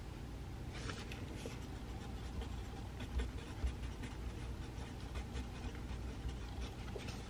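Pencil writing on paper: faint, scattered scratching strokes over a steady low room hum, with two soft thumps a little after three seconds in.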